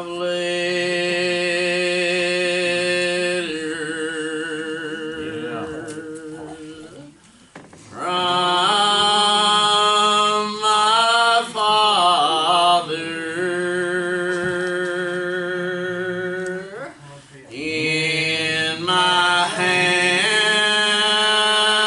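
Slow church singing: long held notes with vibrato, pausing briefly about seven and again about seventeen seconds in.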